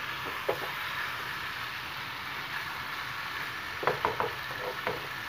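Chicken in masala sizzling steadily in a nonstick pan over a high flame. A spatula taps and scrapes against the pan once about half a second in and several times near the end.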